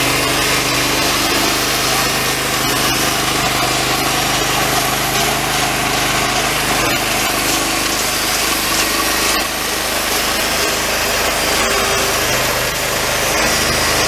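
Homemade band sawmill sawing through a long leaf pine log, its engine running steadily under load while the old, worn blade cuts.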